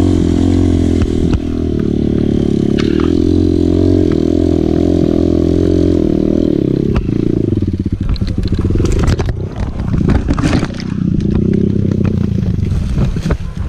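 Dirt bike engine running at a steady pitch, then dropping and turning rougher about seven seconds in, with a run of rattling and scraping clatter just after.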